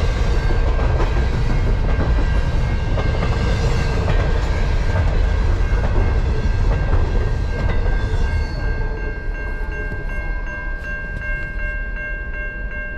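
Double-stack intermodal freight train running past, its heavy rumble and wheel clatter fading away about two-thirds of the way through as the last cars go by. A grade-crossing bell rings throughout, its quick repeated dings standing out clearly once the train noise drops.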